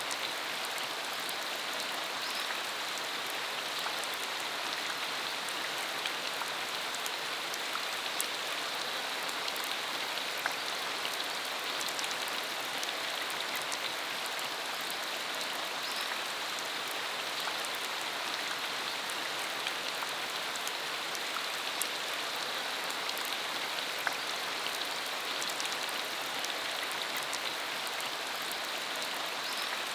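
Steady rain falling on a country dirt road: an even hiss with scattered ticks of single drops.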